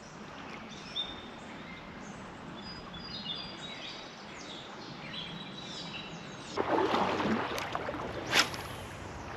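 Small birds chirping in short, quick calls over the steady rush of creek water. About six and a half seconds in, a louder rushing noise lasts for about a second and a half, followed by a single sharp snap.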